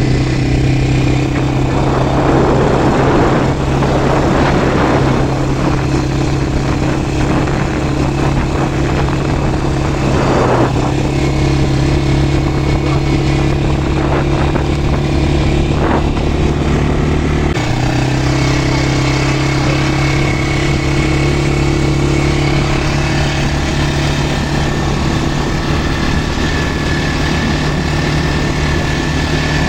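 Quad bike engine running at a steady speed, its pitch stepping slightly a couple of times. A rushing noise rises over it for a few seconds about two seconds in.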